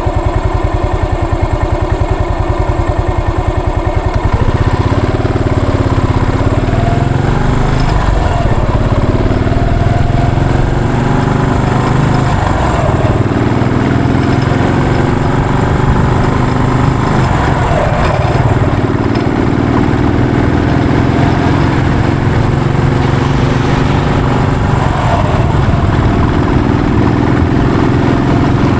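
Yamaha SR400's air-cooled single-cylinder four-stroke engine idling steadily, then pulling away about four seconds in and rising and falling in pitch over and over as it accelerates and shifts through the gears.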